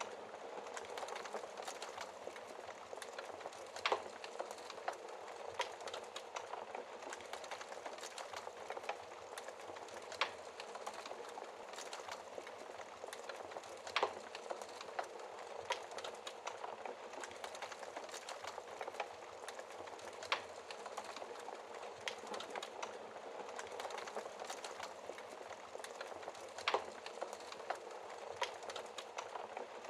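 Wood fire crackling: a dense patter of small ticks and hiss, with a louder single pop every few seconds.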